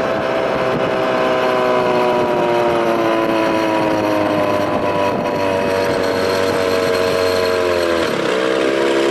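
1993 Evinrude 25 two-stroke outboard, fitted with a bigger intake, running under way, its pitch sagging slowly; near the end the revs dip briefly, then steady.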